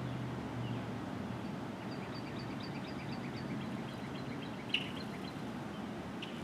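A small songbird sings a quick series of repeated high notes, about five a second, then gives a sharp call about five seconds in. Underneath runs a steady outdoor background hum.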